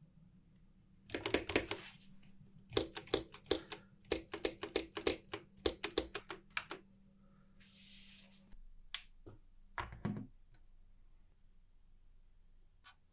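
1949 Olympia typewriter's keys being struck, the mechanism clacking in quick runs of sharp clicks, about four or five a second, with a brief hiss and a few single clicks near the end.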